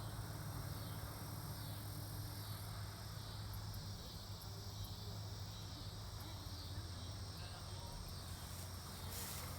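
A steady, high-pitched chorus of insects shrilling without a break, over a low steady hum.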